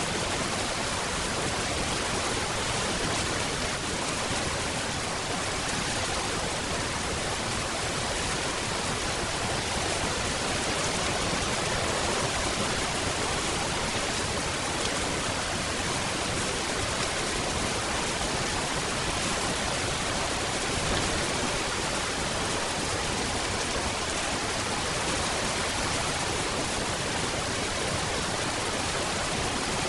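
Steady rain falling, an even hiss with no distinct drops, thunder or other events.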